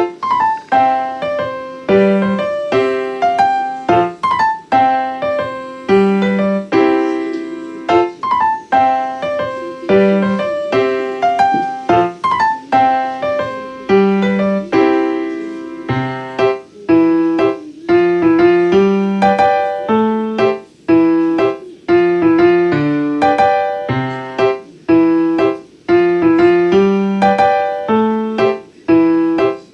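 Background piano music: a run of struck notes in a steady rhythm.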